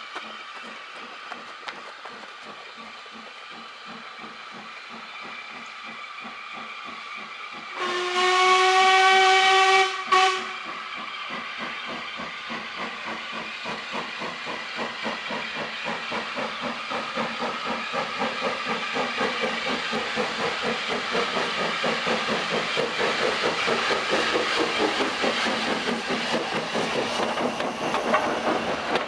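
Steam locomotive whistle sounding one long blast about eight seconds in, with a short extra toot right after it. It sounds over the steam train's steady rhythmic running, which grows louder as the train approaches.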